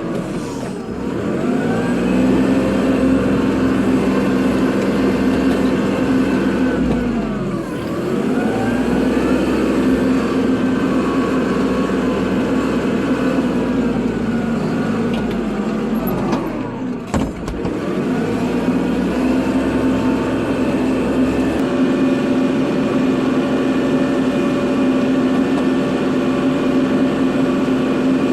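Kubota tractor's diesel engine running at high revs while plowing snow, its pitch sagging and coming back up three times, about a second in, near eight seconds and near seventeen seconds.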